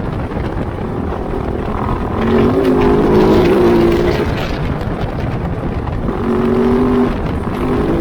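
Kove 450 Rally's single-cylinder engine running under way on a dirt ride, over a steady rumble of the bike on rough ground. It pulls harder and louder twice, about two seconds in and again about six seconds in.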